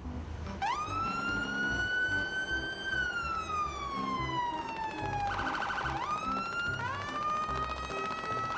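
Police car siren wailing: the pitch climbs, holds and falls slowly, breaks into a rapid warble a little past halfway, then climbs again.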